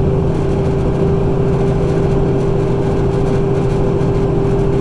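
Semi truck's diesel engine pulling steadily up a grade, heard inside the cab, with the engine cooling fan locked in adding a steady hum.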